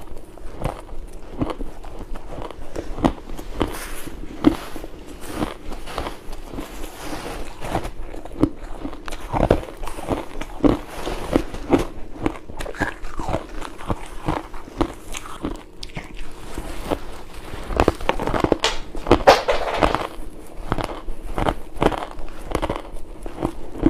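Close-miked biting and chewing of crunchy ice: a dense run of irregular sharp cracks and crunches, with a louder burst of crunching a little past the middle.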